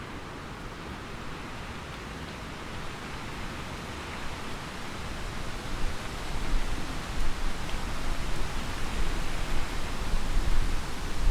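Steady rain falling, with a low roll of thunder building from about halfway through and growing louder near the end.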